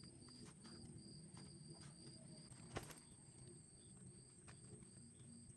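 Faint insects chirping: a steady high buzz and a short high chirp repeating a few times a second, with one sharp click about halfway through.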